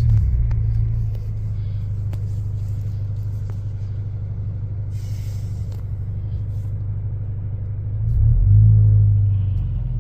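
2.3-litre EcoBoost four-cylinder with aftermarket performance mufflers and the resonator deleted, heard from inside the cabin: a steady low exhaust drone while driving, then a short louder surge under throttle about eight seconds in that drops back near the end.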